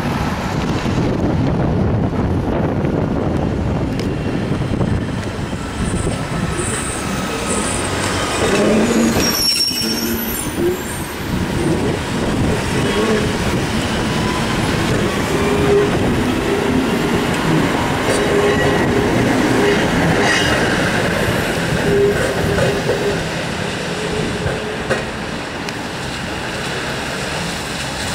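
Fukui Railway 610-series electric railcar pulling away from a station: the running noise of its motors and wheels on the rails, with faint gliding tones over it.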